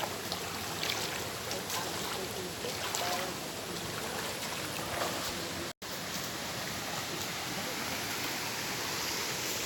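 Steady rush of a flowing mountain stream, with a brief drop-out a little past halfway.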